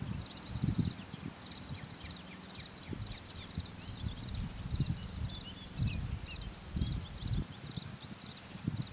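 Garden nature ambience: a steady, high, rapidly pulsing insect chorus, with scattered short falling chirps and irregular low thuds underneath.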